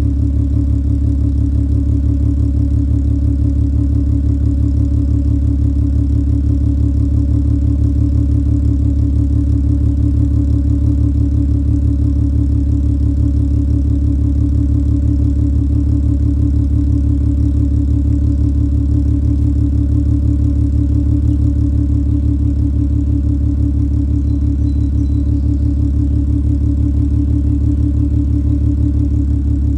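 2003 Volkswagen Jetta GLI (MK4) engine idling steadily while warming up after a cold start.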